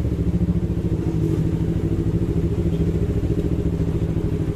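Yamaha MT-25's 250 cc parallel-twin engine running steadily at low revs, an even pulsing engine note.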